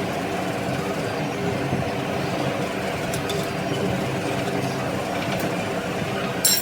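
An engine running steadily with an even drone, and a short metallic clink near the end.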